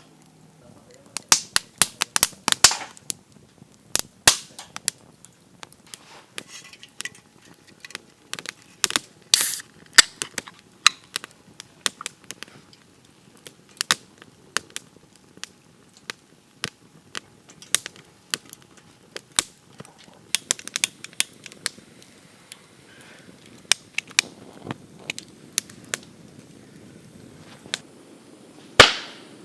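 Wood cracking and snapping in sharp, irregular cracks, some in quick clusters, with one loud crack near the end.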